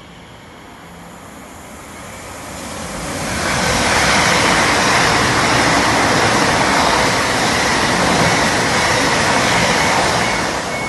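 A train passing close by: a loud, even rush that builds from about two seconds in, holds for about seven seconds, then begins to fade near the end.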